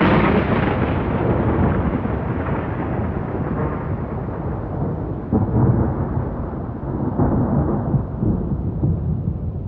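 A thunderclap that starts suddenly and loud, followed by a heavy, rolling rumble. The rumble swells again about halfway through and once more a little later, then slowly fades.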